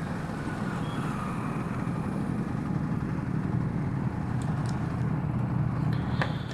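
Royal Enfield Himalayan 450's single-cylinder engine running steadily while the motorcycle rides at speed, with road noise underneath. A few short clicks come near the end.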